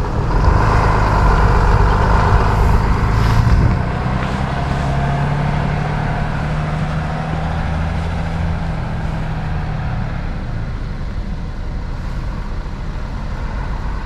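Tow truck engine running as the truck moves off to turn around. It is loudest for the first few seconds, then runs steadily and eases off near the end.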